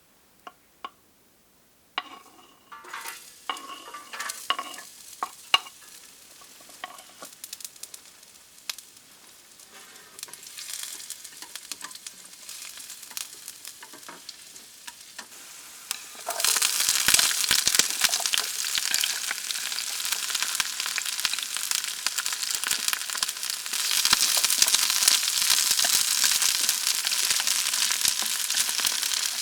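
Food frying in a pan. A few clicks and knocks come first, then a faint crackle that builds. About halfway in, the sizzle jumps suddenly and stays loud and steady.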